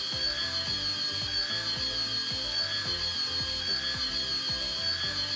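Owleez flying toy owl's small electric motor and spinning propeller wings running at a steady high whine.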